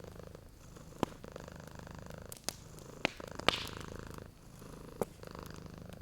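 A cat purring steadily, with sharp pops from a crackling fireplace fire about five times, the loudest pop about halfway through.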